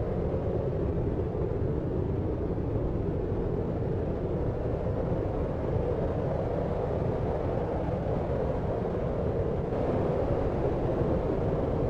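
Deep, steady noise of a sleep-aid noise track, with its weight in the low range and no separate sounds standing out.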